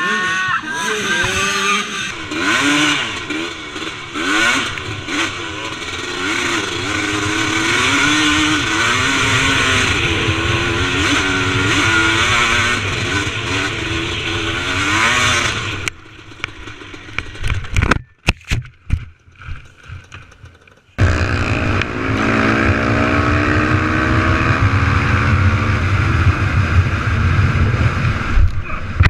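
Off-road motorcycle engines revving up and down as the bikes ride. Near the middle the engine sound drops away to a few sharp knocks and clatter, then another engine runs with a steadily climbing pitch.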